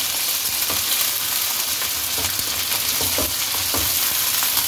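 Raw chicken pieces and sliced onions sizzling in hot oil in a wok-style pan, the chicken at the searing stage just after going in. A wooden spatula stirs them, knocking against the pan a few times over the steady sizzle.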